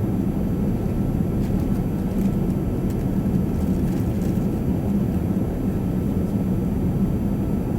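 Boeing 787 airliner cabin noise: a steady, even rumble of the engines and airflow, with a few faint clicks.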